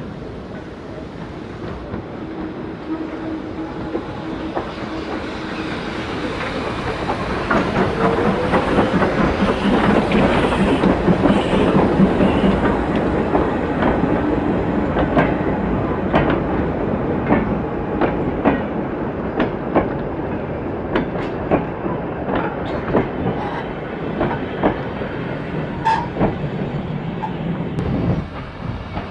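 A train passing close by: the running noise builds to a peak, then the wheels click rhythmically over the rail joints as the carriages go past. The sound drops away suddenly near the end.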